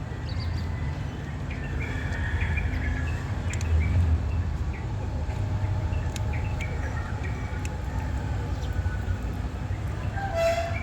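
Small birds chirping here and there over a steady low rumble, with a short pitched call near the end.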